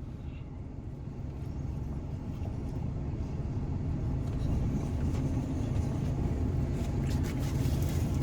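Low vehicle engine rumble that grows steadily louder over several seconds.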